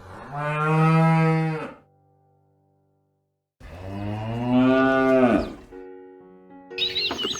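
Cattle mooing twice, each a long low call lasting about one and a half to two seconds, over soft held music notes. Near the end, birds start chirping.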